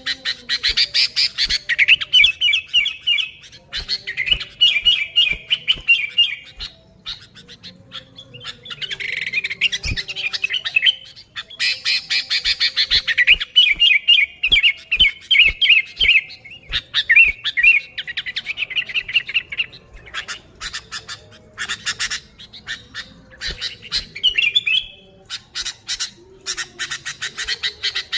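Sooty-headed bulbul (kutilang) calling vigorously in repeated phrases of rapid, chattering notes, each phrase one to three seconds long with short pauses between, mixed with sharp clicks.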